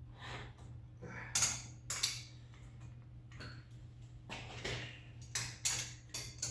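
Metal hand tools and parts clinking and knocking, with several irregular sharp clinks over a steady low hum.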